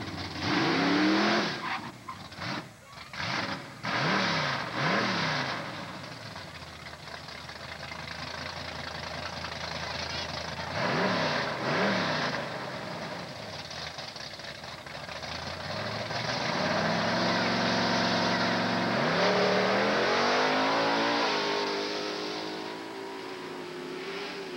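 A first-generation Chevrolet Camaro drag car's engine, blipped in several sharp revs at the starting line. It then accelerates hard down the strip, the pitch climbing, dropping once at a gear change and climbing again.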